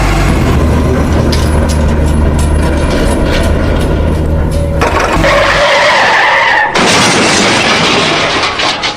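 Heavy vehicle engine sound effects: a steady low engine drone, then about five seconds in a squealing, skidding sound, then a noisy rush.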